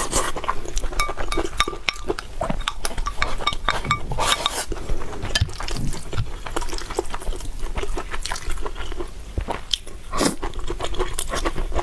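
Close-miked eating sounds: a person chewing and slurping noodles, with many irregular wet mouth clicks and smacks.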